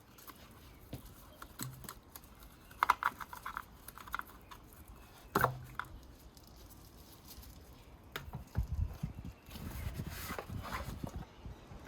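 Plastic clicks and knocks of an ignition coil and its connector being unplugged and pulled from a BMW 318i engine by hand, with the sharpest knock about halfway through and some low handling rumble near the end.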